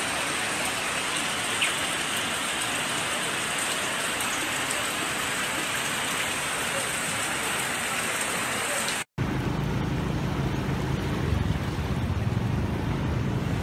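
Heavy rain falling steadily, a continuous hiss over floodwater. About nine seconds in it cuts off abruptly and a steady low rumble takes over.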